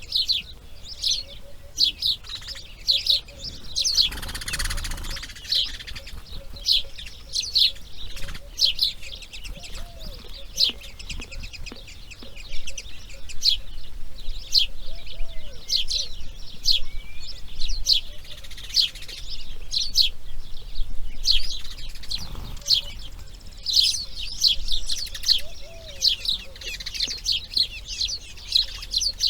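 Birds chirping: many short, high chirps in rapid, overlapping series. There is a brief rush of noise about four seconds in.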